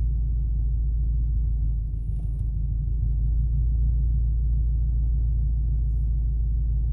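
1991 Subaru Legacy turbo's flat-four engine running steadily, heard inside the cabin as an even low rumble.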